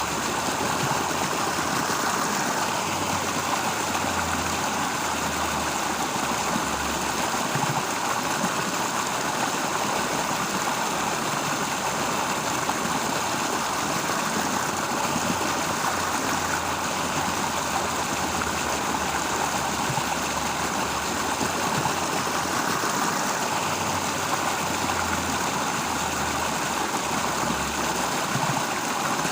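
Steady rushing of flowing water, even and unbroken, with a faint low hum that comes and goes underneath.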